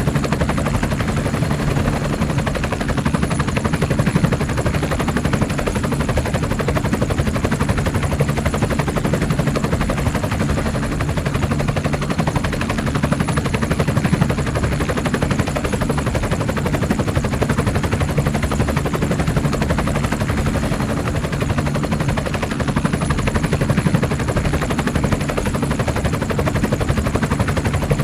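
Helicopter running steadily nearby, a loud, even rapid chopping over a low drone that does not change.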